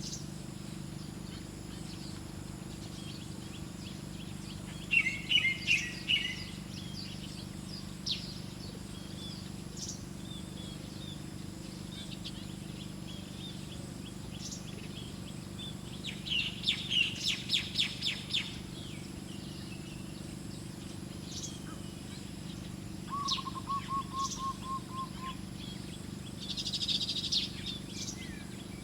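Small wild birds chirping in a few short bursts of quick, high notes, with a short, lower trill of evenly repeated notes about two-thirds of the way through.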